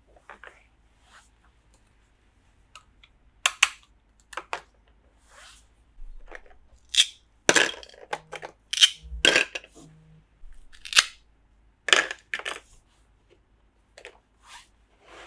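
Toy pieces and packaging being handled during an unboxing: irregular sharp clicks, taps and short crinkly rustles, busiest and loudest in the middle.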